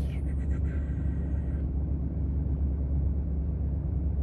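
High-mileage Ford 6.7 Powerstroke V8 turbodiesel idling steadily, still cold shortly after a cold start, a continuous low rumble.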